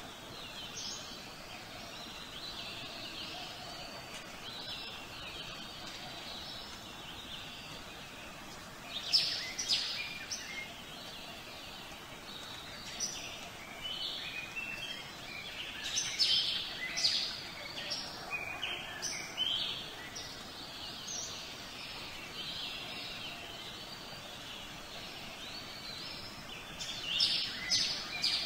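Birds chirping and singing over a steady outdoor background, with louder flurries of calls about a third of the way in, through the middle, and again near the end.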